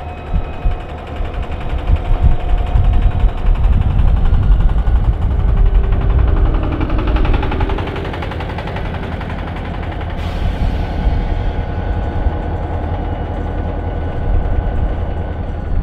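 Diesel-hauled Mugunghwa passenger train running: a loud, heavy low-pitched running noise with a rapid clattering texture and faint steady whining tones. A short, sharp burst of hiss about ten seconds in.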